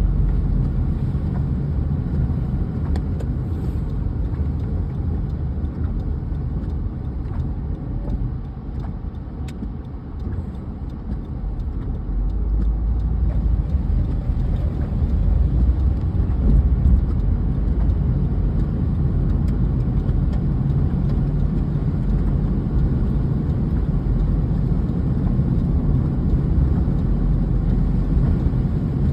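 Car driving: a steady rumble of road and engine noise. It eases off briefly about ten seconds in, then grows louder again.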